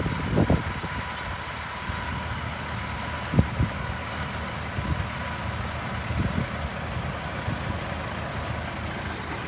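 Tractor engine running steadily, with a few short knocks, the loudest about half a second and three and a half seconds in.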